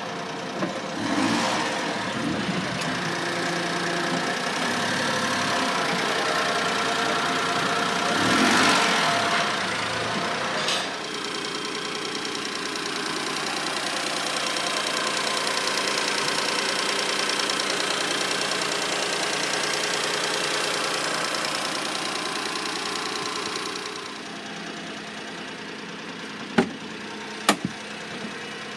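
Honda Acty kei truck's small three-cylinder engine running at idle, swelling louder twice in the first ten seconds, then settling to a steady idle that drops quieter about 24 seconds in. Two sharp knocks near the end.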